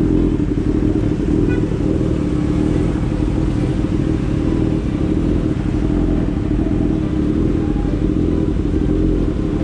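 Suzuki motorcycle engine idling steadily, a constant low hum with no revving.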